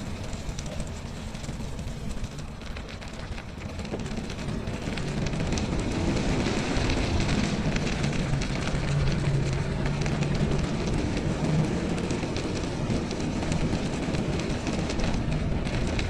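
Riding noise of a bicycle on a winter trail: a steady rumble with fine crackling that grows louder about six seconds in, with a low hum in the middle.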